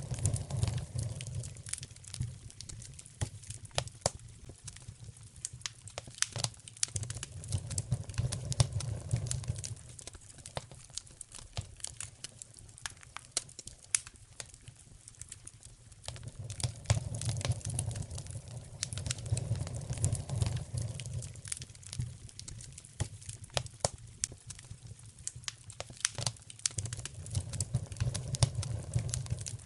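Wood fire crackling in a fireplace: irregular sharp snaps and pops over a low rumble of the flames that swells and fades every several seconds.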